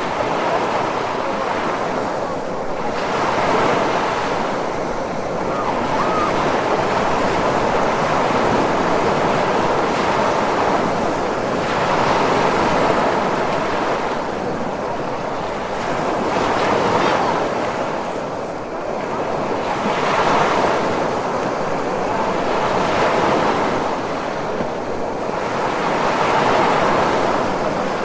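Ocean waves breaking on a shore: a continuous rushing surf that swells and eases every three to five seconds as each wave comes in.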